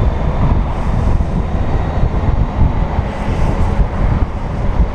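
Wind buffeting the microphone over the steady road and engine noise of a Honda Gold Wing motorcycle riding at speed, a gusty low rumble throughout.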